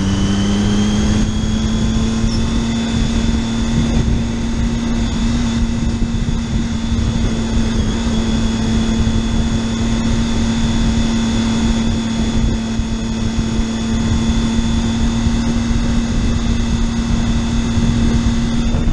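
Motorcycle engine running at a steady cruising speed, its pitch climbing a little in the first second and then holding, with wind rushing over the microphone.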